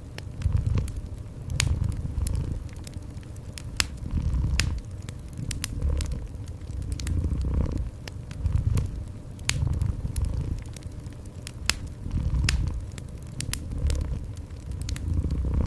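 Cat purring in a low, steady rhythm, swelling and fading with each breath, over a wood fire crackling with scattered sharp pops.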